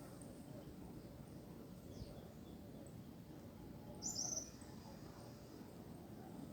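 Faint steady low background noise, with a single short high bird chirp about four seconds in.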